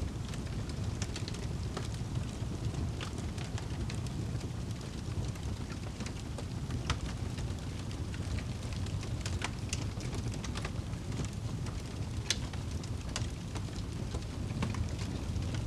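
Wood fire crackling, with scattered sharp pops over a steady low rumble; two pops, about 7 and 12 seconds in, stand out as the loudest.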